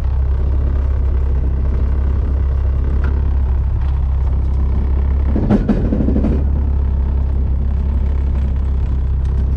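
A drift car heard from inside as a steady low drone of engine and drivetrain. About five and a half seconds in comes a sudden loud bang, then about a second of clatter: the sound of the transmission breaking.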